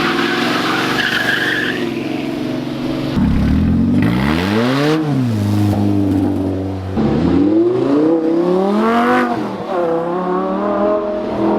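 Car engine revved twice, each time rising and falling in pitch: a quick blip about four seconds in, then a longer climb that drops away a little after nine seconds, with the engine running steadily between. A short high squeal sounds in the first two seconds.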